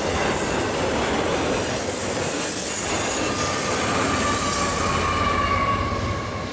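Freight train container cars rolling past with steady wheel-and-rail noise and wheel squeal, which falls slowly in pitch over the second half. A CSX diesel locomotive on the rear passes with a low engine rumble, and the sound eases as the train clears near the end.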